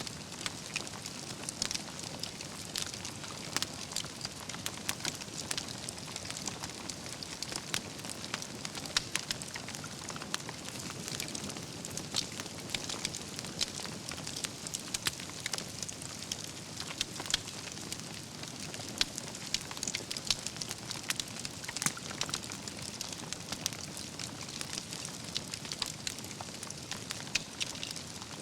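Wood campfire burning with steady hissing and dense, irregular crackling and popping of logs and embers.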